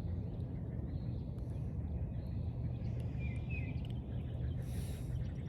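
Outdoor ambience by a lake: a steady low rumble with faint bird chirps, two clearer short chirps about three seconds in, and a brief hiss near the end.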